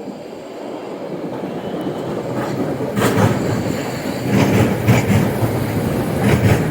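Train pulling into the station: a low rumble that grows louder, with the wheels clacking over rail joints from about three seconds in.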